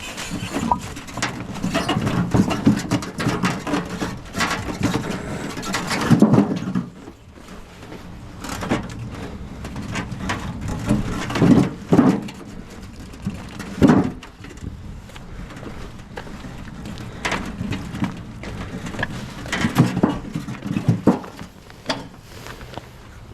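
Split firewood being handled and stacked: irregular knocks of wooden pieces striking one another, with a few louder knocks spread through.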